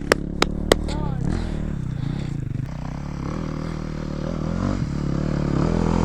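Dirt bike engine running at low revs, with three sharp clacks in the first second, like rock or metal being struck; the engine picks up near the end.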